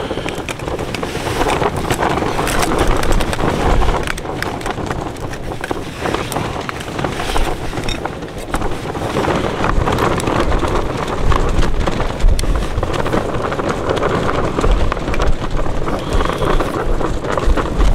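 Gale-force wind gusting hard across the microphone: a loud, uneven rumble that rises and falls, with scattered small clicks.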